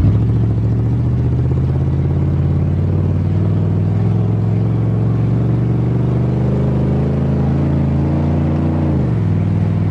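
1988 Chevrolet pickup's engine pulling under acceleration, its pitch slowly rising. About nine seconds in the pitch drops sharply as the transmission upshifts, then holds steady.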